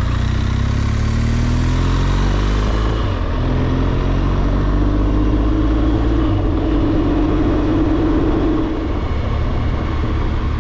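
BMW R1200GS Adventure's boxer twin engine running on the move, under a steady rush of wind noise. The engine note rises in pitch over the first few seconds as the bike picks up speed, then holds as a steadier drone.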